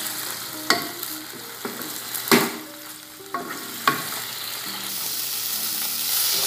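Diced chicken breast sizzling as it fries in a nonstick pan, stirred with a spatula that scrapes and knocks against the pan several times in the first four seconds, the loudest knock a little over two seconds in. After that the sizzle goes on as a steadier hiss.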